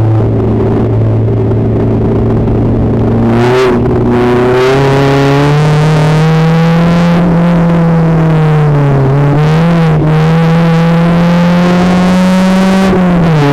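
Renault Twingo race car engine heard from inside the cabin on the track: it runs steadily, changes gear about four seconds in, then climbs slowly in pitch under load. There is a brief wobble in revs around two-thirds of the way through and a drop near the end.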